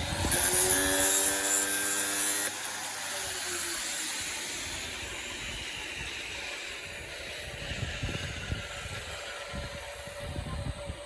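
Electric angle grinder running on the metal of a plough under repair with a loud hissing for about two seconds, then switched off and winding down. A quieter steady hum carries on afterwards.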